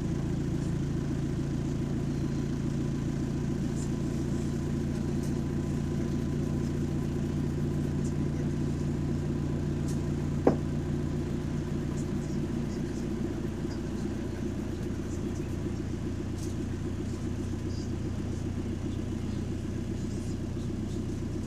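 A bus's engine running with a steady drone, heard from on board; the recordist reports the bus has a bad turbo. The drone eases a little past the middle, and there is one short sharp knock about halfway through.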